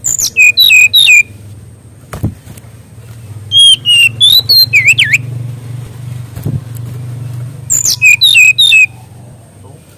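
SRDC songbird (sikatan rimba dada coklat) singing loudly in three quick bursts of clear whistled notes, most of them sliding sharply downward in pitch; the middle burst is more varied, with a dip and rise. A steady low hum lies under the song.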